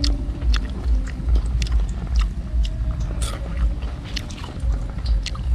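Close crunching and chewing of crispy batter-fried banana blossom: irregular sharp crackles over a low pulsing chew.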